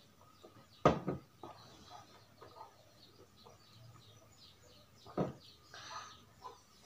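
Small birds chirping faintly in the background, with two sharp knocks of drinks being set down on a table, about a second in and again about five seconds in.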